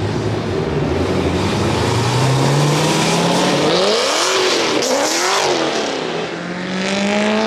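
Performance car engine revving: the revs climb slowly, then two quick blips up and back down about four and five seconds in, then climb again near the end.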